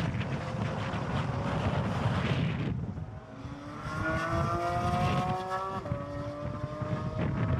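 Supercar engine accelerating on a race track: a rumbling run, then the engine note climbing steadily for a couple of seconds before dropping suddenly at an upshift about six seconds in and pulling on at a lower pitch.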